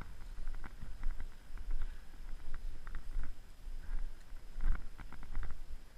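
Irregular rustling and crackling of leaf litter and brush, clustered most densely near the end, over a low rumble of wind on the microphone.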